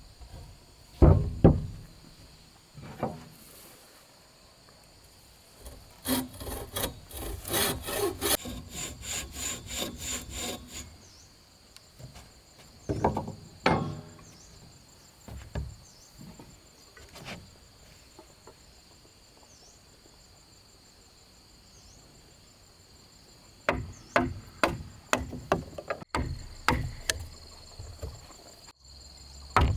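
Wood being sawn by hand, a run of quick back-and-forth strokes a few seconds long in the middle, with scattered knocks of wood being handled before and after.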